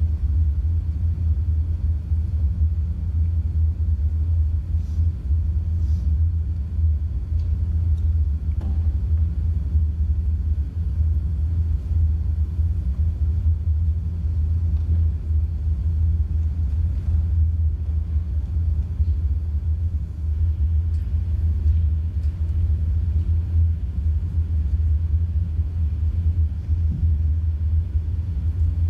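Steady, loud, deep rumble that does not change, with a few faint ticks in its first ten seconds.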